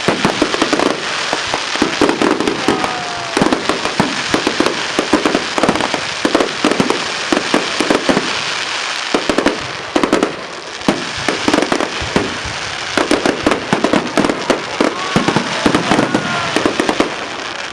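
Fireworks going off in a rapid, continuous stream of bangs and crackling.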